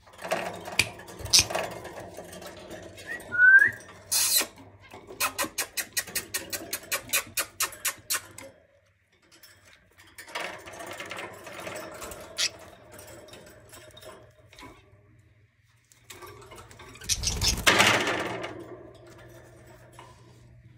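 Pet budgerigars chirping and chattering, with a short rising whistle about three seconds in and a run of quick, evenly spaced clicks at about four a second a little later. A louder burst of sound comes near the end.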